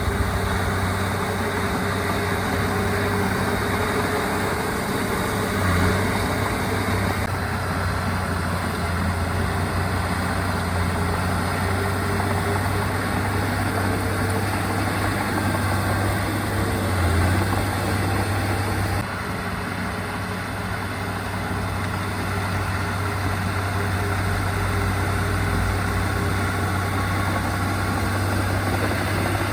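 Diesel engine of heavy earthmoving machinery running steadily with a deep, even hum, swelling briefly twice. The level drops slightly about two-thirds of the way through.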